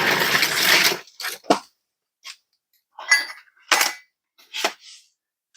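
Steel suspension lift-kit parts (lift blocks and U-bolts) being handled: a noisy scrape about a second long, then half a dozen separate sharp metal clinks and knocks.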